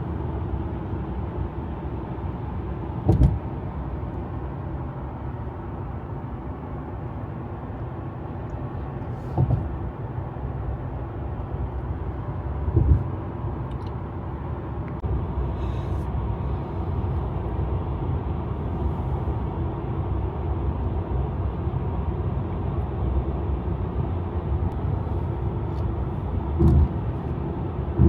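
Road noise inside a Tesla electric car cruising on an expressway: a steady low rumble of tyres and wind with no engine note. A few short low thumps break through at intervals.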